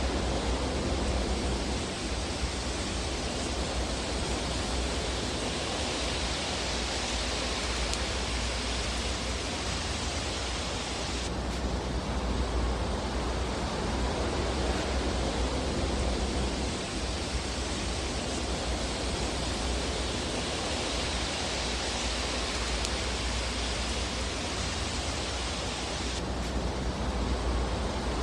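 Fire burning in a fireplace: a steady, dense rush of noise with a low rumble underneath and no distinct crackles standing out.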